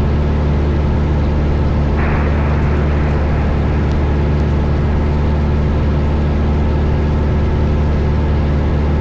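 Steady drone of a 1972 Cessna 172 Skyhawk's four-cylinder Lycoming engine and propeller in flight, heard inside the cabin, with an even rush of airflow noise. About two seconds in, a higher hiss steps up and stays.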